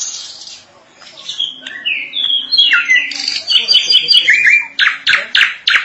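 Drongo singing a long, varied song: clear whistled notes sliding down in pitch, strung together, then a quick run of harsh, scratchy notes about five seconds in.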